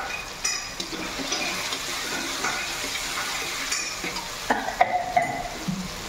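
Tomato-and-curd masala sizzling in a kadai while a spoon stirs it, with a few sharp metallic clinks of the spoon against the pan, most of them between about four and a half and five seconds in.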